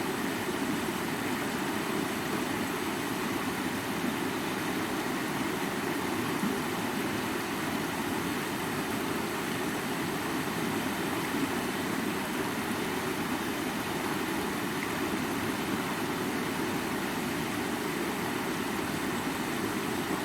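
Rushing stream splashing over rocks: a steady, even rush of water with no breaks.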